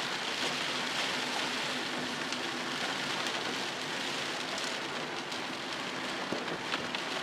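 Steady rain drumming on a car, heard from inside the cabin while driving, with a low steady hum of engine and road noise beneath it.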